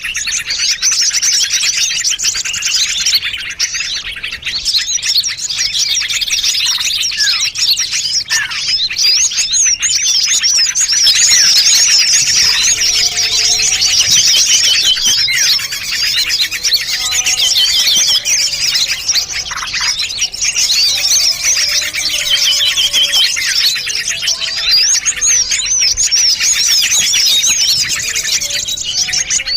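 A dense, unbroken chorus of many small songbirds chirping and twittering over one another: a mixed-species bird-lure recording. From about twelve seconds in, lower whistled notes join the high chirping.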